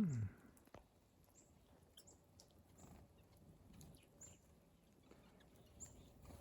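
Faint, scattered short thin high call notes from small songbirds at a feeder, such as black-capped chickadees and nuthatches. A brief low sound sliding down in pitch right at the start is the loudest thing.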